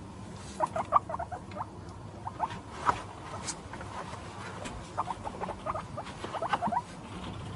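A small animal's short, squeaky calls given in about four quick bursts of rapid notes, over a steady background hiss.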